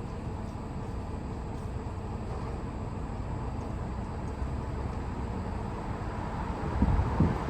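Strong wind buffeting the microphone as a steady low rumble, with two heavier low thumps from gusts near the end.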